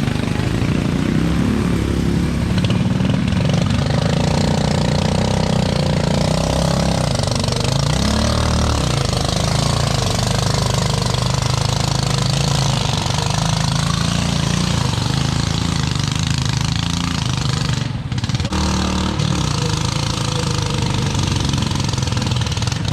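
Tractor engine running hard under load, its pitch rising and falling as it is driven, with a brief drop in level near the end.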